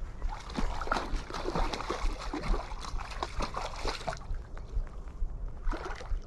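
Water splashing and sloshing in shallow stream water, with irregular knocks and rustles of handling. It grows quieter about four seconds in.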